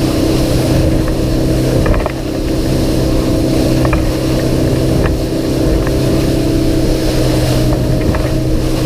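Outboard engine on a bay boat running steadily under way, with a steady rush of wind and water and a few light knocks.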